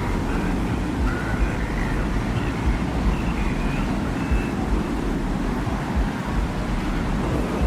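Steady, deep desert wind with a low rumble, and faint short whistling tones drifting above it, as in a designed sand-dune ambience.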